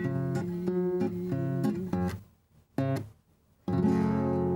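Acoustic guitar playing out the end of a song: a run of strummed chords, two short breaks about halfway through, then a final chord about three and a half seconds in that rings on.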